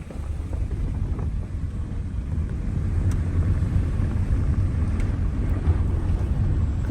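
A vehicle on the move: a steady low road-and-engine rumble with wind buffeting the microphone.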